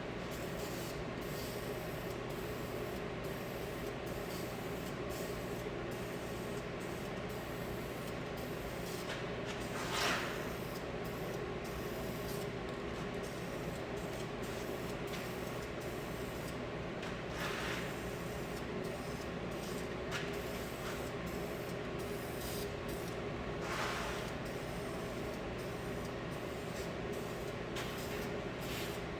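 Aerosol spray-paint can hissing steadily while black paint is sprayed, with a few short, louder bursts of spray.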